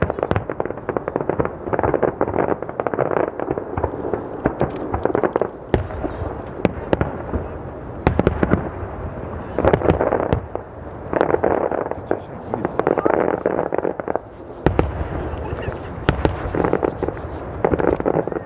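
Aerial fireworks display: shells bursting in a string of sharp bangs, with dense crackling from crackle-effect stars in several stretches of a second or two.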